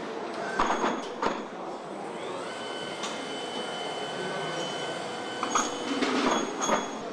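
Truck assembly-line noise: a series of metal clanks and knocks, with a steady machine whine that starts with a short rise about two and a half seconds in and stops about three seconds later.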